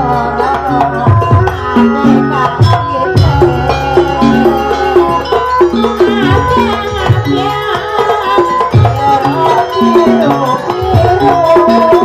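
Live traditional Banyuwangi ensemble music accompanying a barong dance: drums keep a steady rhythm under repeated pitched percussion notes and a wavering melody line.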